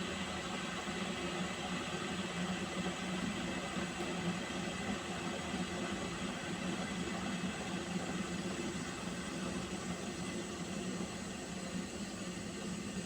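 A pot of water heating on the boil, giving a steady rumbling hiss with a low hum.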